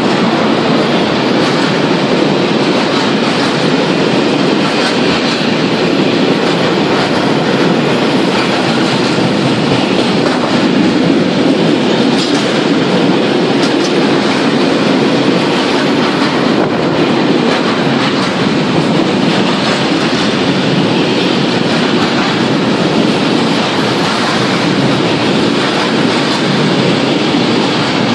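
Container freight train of flat wagons running past close by at speed: a steady, loud rolling of steel wheels on the rails, unchanging as the wagons go by.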